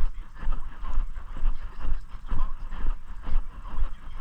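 Footsteps at a steady walking pace, about three steps every two seconds, over a constant low rumble.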